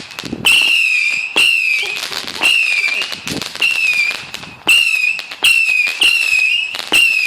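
Howling Hell Cat 200-shot firework cake firing whistling shots one after another, about one a second. Each shot is a sharp launch followed by a high, shrill, wavering whistle.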